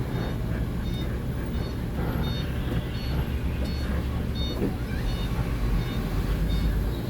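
Heavy vehicle engine running with a steady low rumble, with a short electronic warning beep repeating about twice a second over it.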